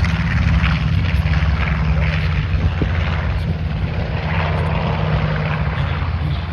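Piston engines of a propeller-driven warbird running with a steady, loud low drone.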